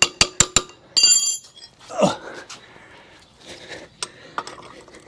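Rapid, evenly spaced metal-on-metal taps, about five a second, each ringing at the same pitch, as the Harley's front axle is knocked out of the forks. The taps stop about half a second in. A short metallic ring follows about a second in, then quieter clinks of metal parts being handled.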